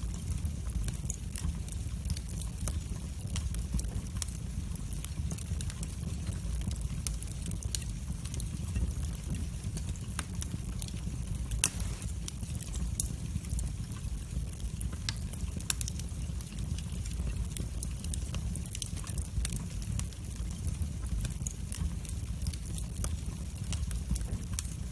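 Wood fire burning in a fireplace: a steady low rumble of the flames with irregular sharp crackles and pops, one louder pop about halfway through.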